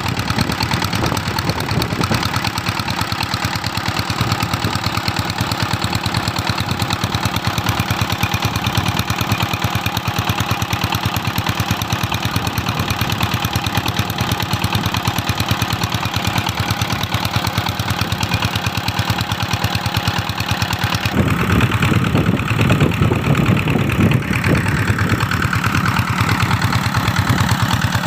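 Stationary diesel engine driving an irrigation water pump, running steadily with a rapid, even diesel knock. About three quarters of the way through it becomes louder and deeper.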